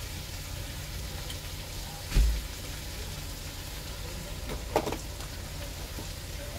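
Cabbage frying quietly in a pot under a steady low rumble, with one loud low thump about two seconds in and a short knock near five seconds.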